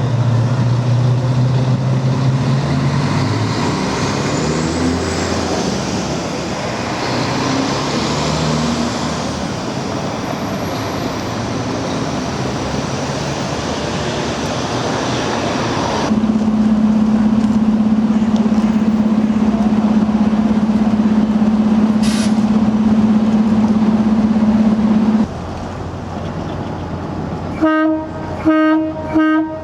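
A train running, with a low steady tone at first, then whining tones that glide up and down over the rumble. Later comes a long steady pitched tone lasting about nine seconds, and near the end three short beeps.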